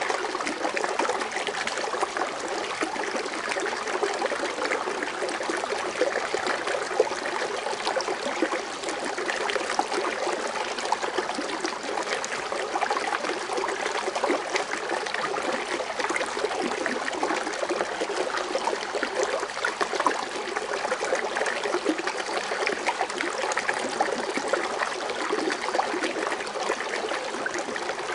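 Foaming water fountain splashing and trickling steadily, a continuous bubbling water noise.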